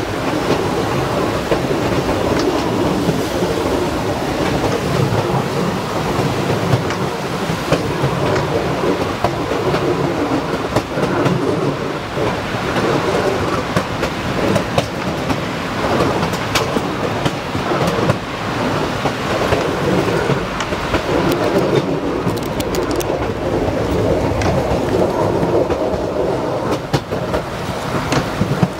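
Narrow-gauge passenger car rolling along the track, heard from its open rear platform. A steady rumble of steel wheels on rail runs throughout, with scattered sharp clicks and knocks.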